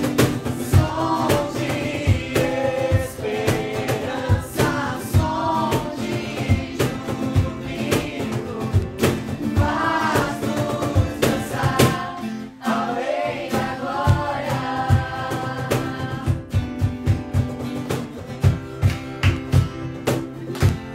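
Christian worship song played live: voices singing a melody over instruments with a steady beat.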